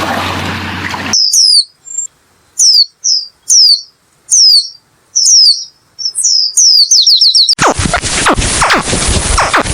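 A small bird chirping: a string of short, sharply falling high notes about one a second, ending in a quick run of four or five notes. It is framed by a rushing noise for about the first second and a loud, rough noise for the last two seconds.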